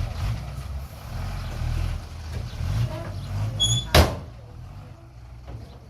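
Small diesel earthmoving machine's engine running with a low rumble, then a brief squeak and one sharp loud clank about four seconds in, after which the engine sound drops away.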